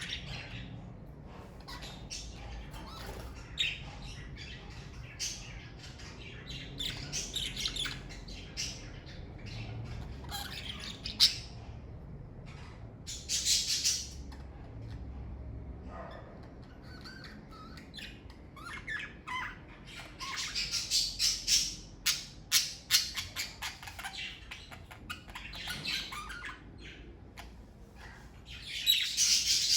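Pet budgerigars chirping and chattering in irregular bursts with occasional squawks, mixed with quick sharp clicks; the chatter grows busiest about two-thirds of the way through and again at the end.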